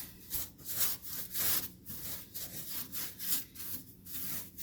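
Rust-sealing coating being worked onto the underside of a car's steel floor pan, rapid back-and-forth applicator strokes, about three a second, making a scratchy scrubbing sound.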